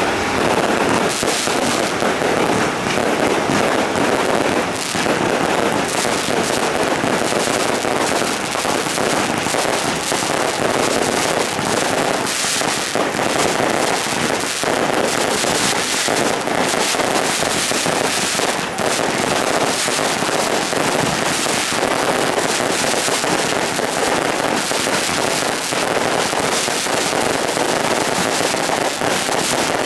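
Firecrackers going off in a dense, unbroken crackle of rapid bangs.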